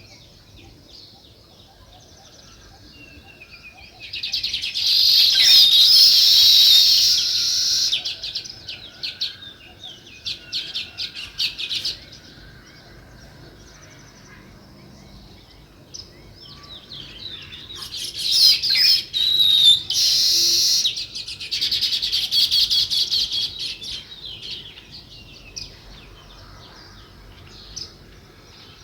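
House sparrows chirping: two loud spells of rapid, dense chirping, the first about four seconds in and the second after about seventeen seconds, with fainter scattered chirps in between.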